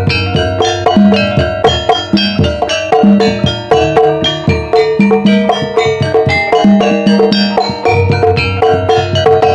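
Javanese gamelan playing a gending in the ebeg style: a dense stream of struck tuned percussion notes over a steady beat of low drum strokes.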